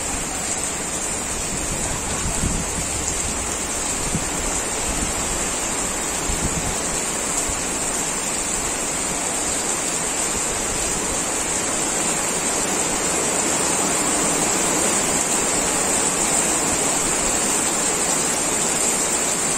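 Heavy rain pouring down steadily, a dense even hiss that grows slightly louder toward the end.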